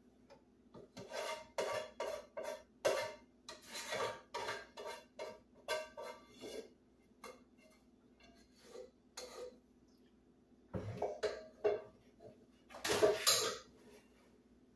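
Metal utensil and cookware clattering and scraping against pots and pans as drained pasta is moved into the skillet of sauce. The knocks come in uneven runs, and a louder burst of clatter comes near the end.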